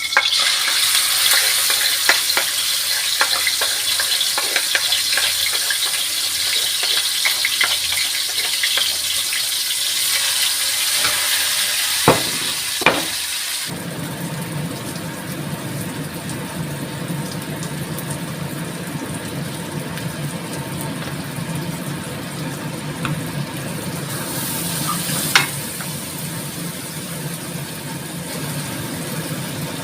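Food frying in a pan: a steady sizzle full of small crackles. About fourteen seconds in it changes abruptly to a duller, steadier hiss with a low rumble, with a few sharp clicks along the way.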